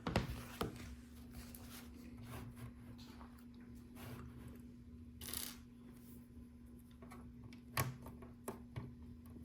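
Small plastic LEGO pieces clicking and clattering as they are picked out and handled, with a sharp click just after the start and another near the end, and a brief rustle about five seconds in. A steady low hum runs underneath.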